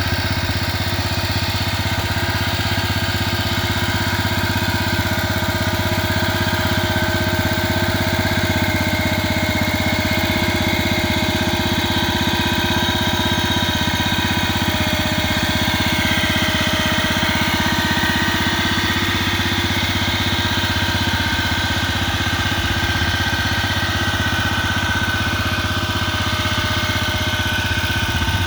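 1947 Gibson Model D tractor's engine running steadily as the tractor is driven, its note wavering slightly about halfway through.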